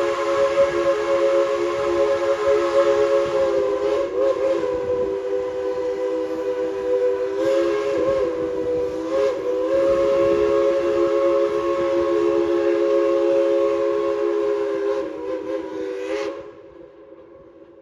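Tweetsie Railroad No. 190 steam locomotive's chime whistle blowing one long held chord of several tones. It wavers briefly a few times, then cuts off about a second and a half before the end.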